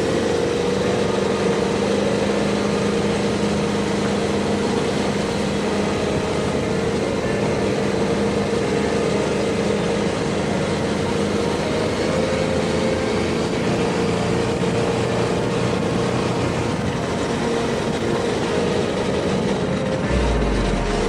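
KTM 1290 Super Adventure S's V-twin engine running at a steady cruising speed, its pitch holding nearly constant, under steady wind and road noise.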